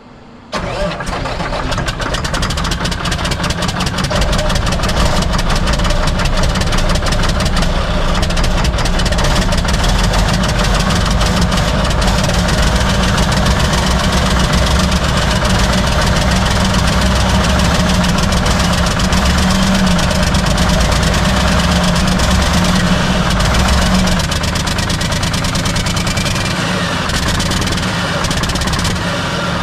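Old Mack R-model truck's diesel engine firing about half a second in and then running steadily, fed fuel from a squeeze bottle straight into the injection pump with both fuel filters bypassed. Because it runs this way, the earlier no-start points to plugged fuel filters rather than the injection pump. The engine gets a little quieter at about 24 seconds.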